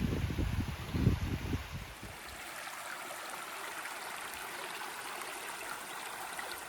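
Steady rush of falling water from a waterfall on a mountain stream. During the first two seconds, low thuds from wind or handling on the microphone sit under it.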